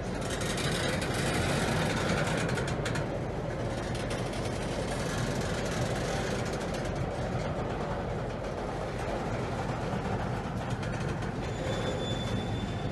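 Norfolk Southern double-stack intermodal freight train rolling past close by: a steady rumble of the wheels on the rails, with clicking and rattling from the passing well cars. A faint, thin high squeal comes in near the end.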